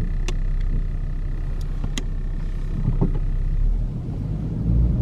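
Car cabin noise while driving: steady low engine and road rumble, with a few light clicks.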